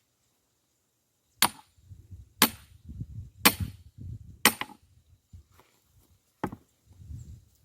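Axe chopping into a log to split firewood: four sharp strikes about a second apart, then a lighter knock a couple of seconds later.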